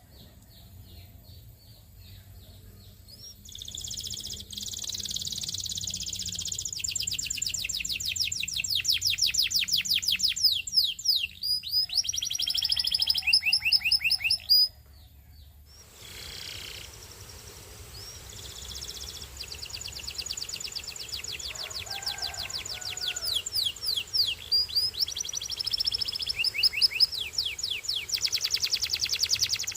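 A canary singing: long phrases of fast, repeated trilled notes. The song breaks off abruptly about halfway through and starts again after a second or so of quiet.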